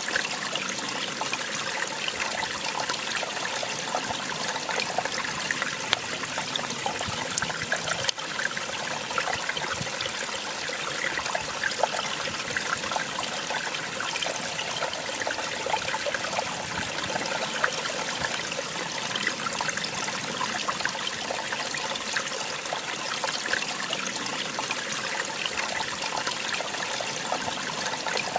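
Small waterfall splashing and trickling steadily, full of small splashes, with one sharper click about eight seconds in.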